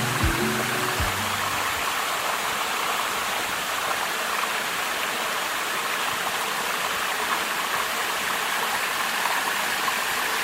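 Rushing water of a stream: a steady, even hiss. The tail of a music track with a beat fades out about a second in.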